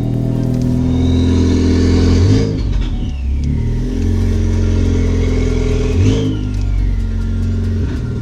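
Turbocharged Ford Focus ST engine revved twice through the open exhaust cutout, which has just been repaired and is now working. A turbo whistle rises with the revs and falls away as they drop after each rev.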